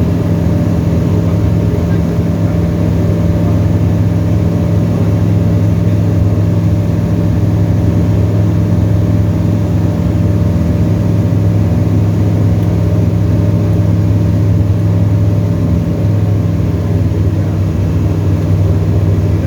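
Tecnam light aircraft's piston engine and propeller droning steadily, heard from inside the cockpit, with no change in pitch.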